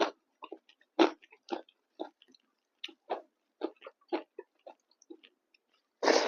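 Close-miked chewing of pork fry with rice and dal: wet, clicky mouth sounds several times a second, with a louder, longer smacking burst near the end.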